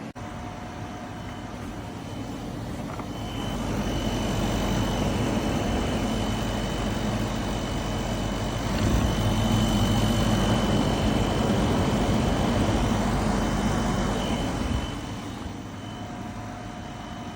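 Portable air conditioner running, a steady fan noise with a faint high whine. The noise grows louder about three to four seconds in, rises a little more about halfway through, and drops back near the end, as the fan speed changes.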